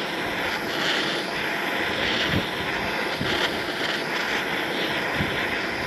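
Handheld gas torch burning with a steady rushing hiss, heating a seized nut.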